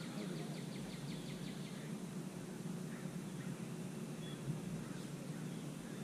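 A songbird's rapid trill of short repeated notes, about six a second, ending about two seconds in, followed by a few faint chirps over steady low background noise.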